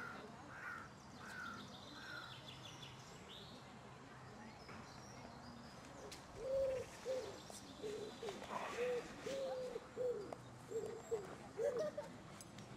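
Birds calling among trees: a few quick repeated high calls at the start and a short high trill, then from about halfway a run of about ten low cooing or hooting notes, the loudest sound.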